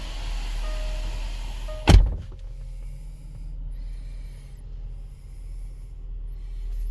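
Range Rover Sport door slammed shut about two seconds in, cutting off a repeating warning chime and the outside noise. Afterwards a low steady hum of the V8 idling remains.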